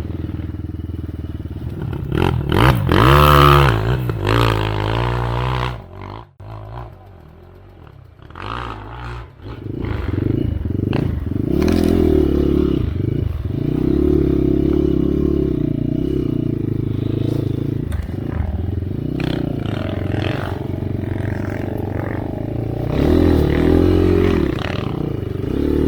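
Enduro dirt bike engine running on a trail ride. It revs up and down about three seconds in, drops to a much quieter low running for a few seconds, then pulls steadily again, with another rise in revs near the end.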